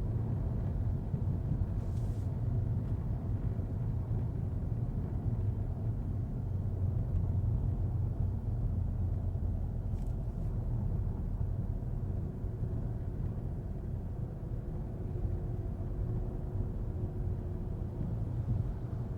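Steady low rumble of a 2025 Volkswagen Golf TDI on the move, with its 2.0-litre four-cylinder diesel and tyres on wet road heard together, and faint steady tones above the rumble. Two faint short ticks come through, about two seconds in and again near the middle.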